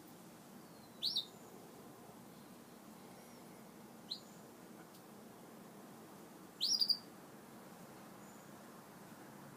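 Canaries giving short, high chirps: one about a second in, a brief one around four seconds, and a slightly longer cluster of two or three chirps near seven seconds, over a faint steady background hiss.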